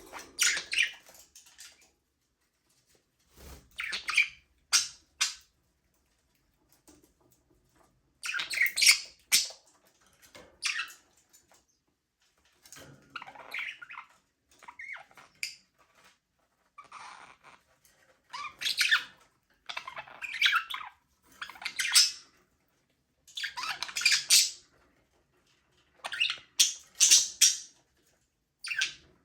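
Budgerigars chirping and chattering in short bursts of quick, high calls, with brief quiet gaps between the bursts.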